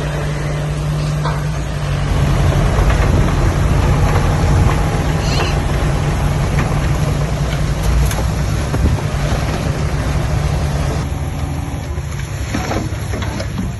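Heavy diesel engine of earthmoving machinery running steadily, growing louder about two seconds in, with a few light knocks.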